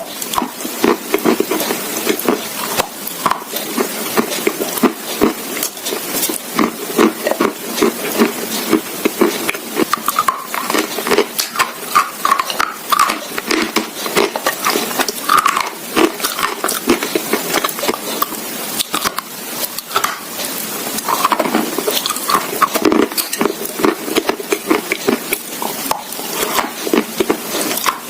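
Close-miked crunching and chewing of brittle, crunchy food, a steady crackle of many small snaps.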